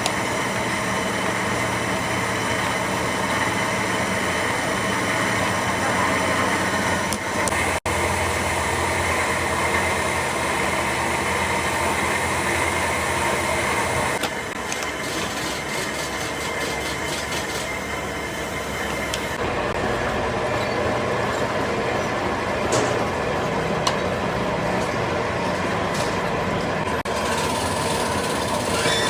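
Steady factory machinery noise: machines running with a constant low hum and several steady whining tones. The mix changes abruptly at cuts about 8, 14 and 19 seconds in.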